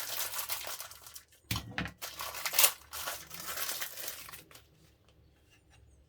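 Plastic kit-parts bag crinkling and being torn open, with a sharp crackle about two and a half seconds in; the rustling stops after about four and a half seconds.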